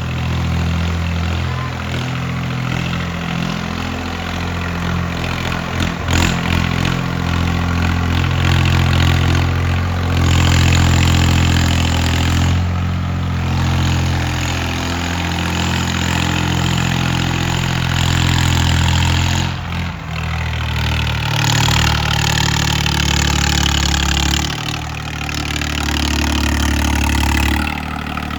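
Tractor diesel engine running under load in a pulling test, its note stepping up and down several times. A rushing noise comes and goes above the engine.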